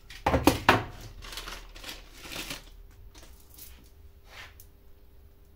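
Hands working on the parts of a new chainsaw: a few sharp knocks in the first second, then rustling and scattered fainter clicks.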